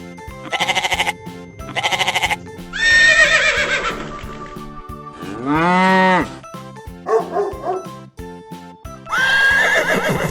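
A string of barnyard animal calls played as sound effects over cheerful background music: two short bleats early on, then several longer calls, one arching up and down about six seconds in, and another near the end.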